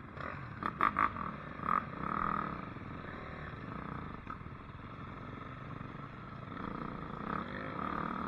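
Dirt bike engine running, its revs rising and falling, with a few sharp clicks about a second in.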